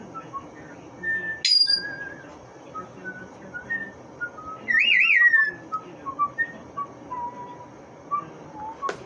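A pet parrot whistling: short chirpy whistled notes throughout, a sharp squeak about one and a half seconds in, and a louder warbling whistle about five seconds in.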